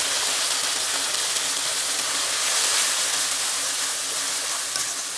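Wet ginger-garlic-green chilli paste sizzling in hot oil with fried onions in a kadhai: a steady loud hiss as the water in the paste hits the oil, while a spatula stirs it.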